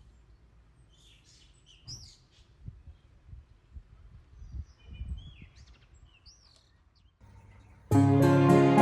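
A few wild birds chirping, short curving calls scattered over several seconds, with soft low bumps underneath. Background piano music comes in loudly near the end.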